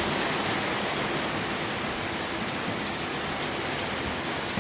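Heavy rain falling steadily, with scattered sharp drop splashes.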